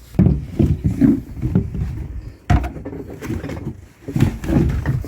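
Footsteps and knocks of people moving through a boat's cabin: irregular low thumps with a sharp bang about two and a half seconds in.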